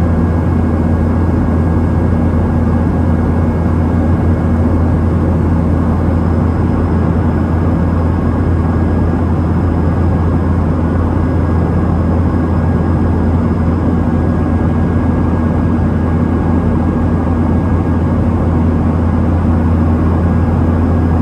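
Steady cabin drone of a Boeing 737-700 in flight, heard from inside the passenger cabin: the CFM56-7B jet engines and airflow make a loud, even low hum with a faint steady whine above it.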